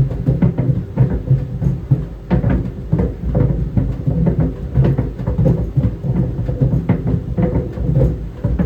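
Tennis balls tumbling in a running clothes dryer: a continuous stream of irregular thumps and knocks against the drum over a steady hum.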